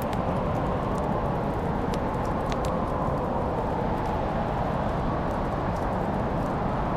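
Wood fire crackling: a steady low rushing with a few sharp pops and snaps, a cluster of them around two to two and a half seconds in.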